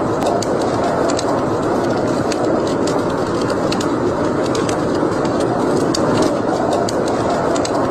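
Wood fire burning in a fireplace: a steady rushing of flames with frequent sharp crackles and pops at irregular intervals.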